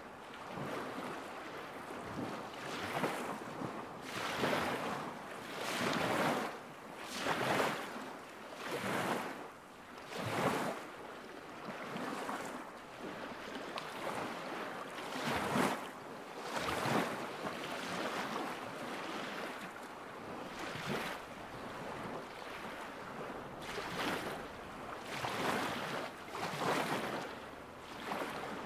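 Small lake waves lapping against the shore in a regular rhythm, one wash about every second and a half, calmer for a few seconds midway.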